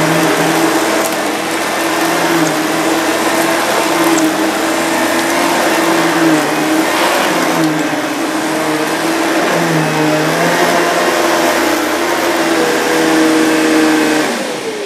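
Panasonic MC-CG885 canister vacuum cleaner running steadily, its pitch wavering slightly. Near the end it is switched off and the motor winds down in a falling whine.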